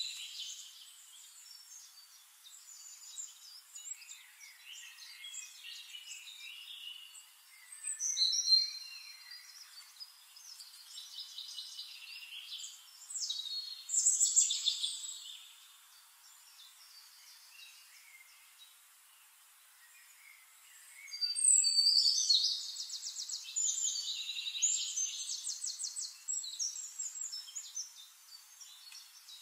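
Songbirds singing in short, high-pitched phrases with quieter gaps between; about two-thirds of the way through, a longer song of rapid repeated trilled notes begins.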